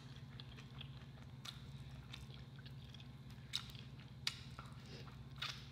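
A person chewing sticky fried chicken close to the microphone: faint, scattered wet smacks and clicks of the mouth, with a low steady hum underneath.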